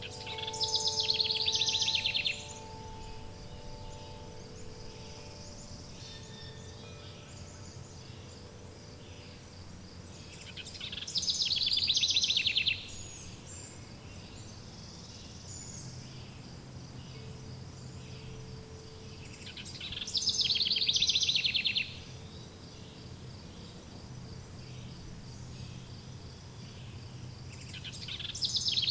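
A songbird's rapid trilling song, each phrase about two seconds long, repeated four times about nine seconds apart over a steady background of insect buzz and a low drone. A few soft held chime tones fade out in the first few seconds.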